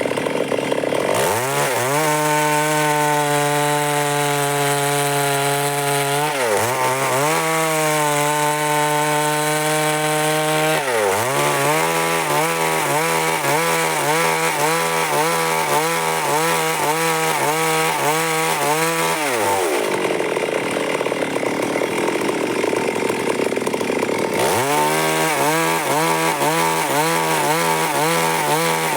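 Stihl MS 382 two-stroke chainsaw revving up to full throttle about a second in, dipping in pitch twice, then wavering up and down as it cuts through wood. It drops back to idle for a few seconds and revs up again near the end.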